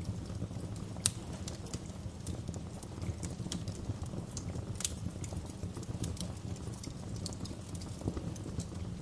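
Wood fire crackling: irregular sharp pops and snaps over a steady low rumble of burning, with the loudest pop about a second in.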